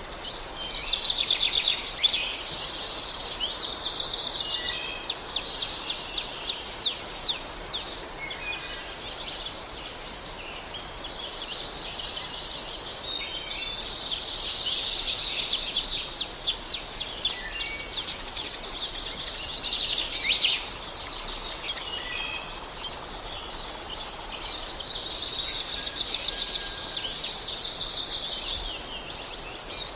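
Songbirds singing: rapid chirping trills in long phrases broken by short lulls.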